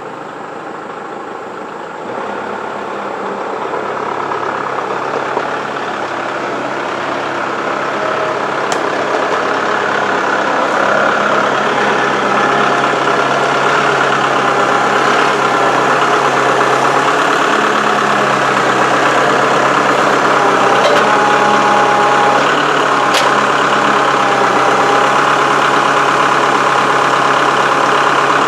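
Tractor engine running steadily. It grows louder over roughly the first ten seconds, then holds at an even pitch and level.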